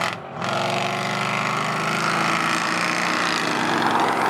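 Car engine held at high, steady revs for a burnout. It dips briefly just after the start, then keeps running.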